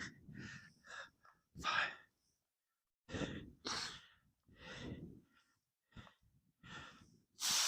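A man breathing hard from exertion during Bulgarian split squats: several short, forceful breathy exhales, each about half a second long, with quiet gaps between.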